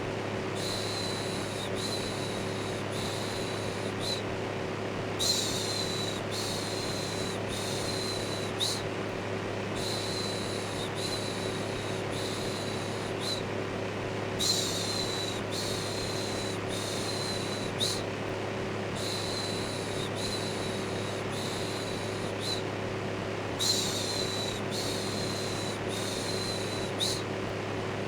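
Electric fan running with a steady whir and low hum. Over it, a repeated soft "shh" shushing, about one and a half per second, in runs of five or six with a short pause every four to five seconds.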